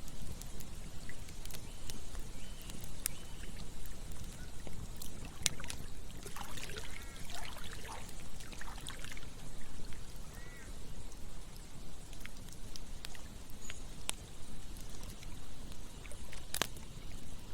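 Campfire crackling, with sharp pops every few seconds and a strong one near the end, over the steady flow of a stream. A few short bird calls come in about the middle.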